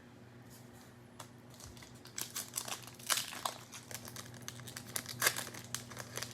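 Cellophane wrapper of a trading-card cello pack crinkling and tearing as it is opened, in a string of irregular crackles that starts about two seconds in.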